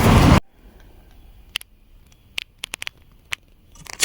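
Loud street traffic noise cuts off abruptly half a second in. Then a quiet room, with a handful of short, sharp clicks and taps of plastic takeaway food containers being handled.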